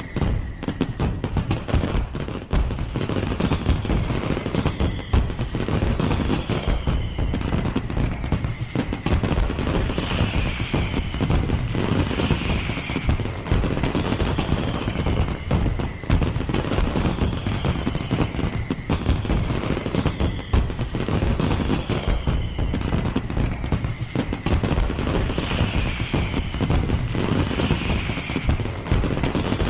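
Fireworks display going off in rapid, continuous bangs and crackles. Music with a repeating phrase plays underneath.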